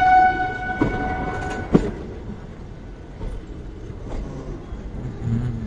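Indian Railways passenger train pulling out of a station, heard from an open coach doorway: a locomotive horn holds one steady note that fades out in the first two seconds, two sharp clacks of the wheels come in that time, then a steady running rumble that grows quieter.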